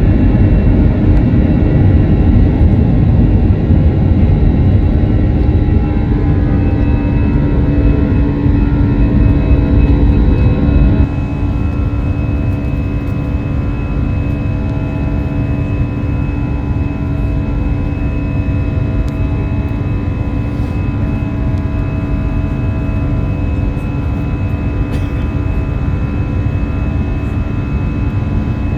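Airbus A321 jet engines at high power, heard from inside the cabin: a loud, steady noise with steady engine tones over a deep rumble. About eleven seconds in, the level drops suddenly and the rumble eases, then it holds steady.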